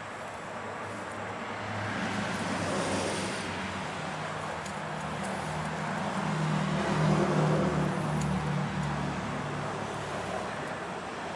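A passing motor vehicle: engine hum and road noise that swell over a few seconds, peak past the middle, then fade.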